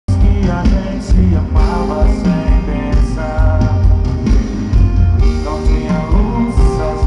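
Live sertanejo band music with singing: a heavy bass and drum beat under a sung melody, loud and continuous.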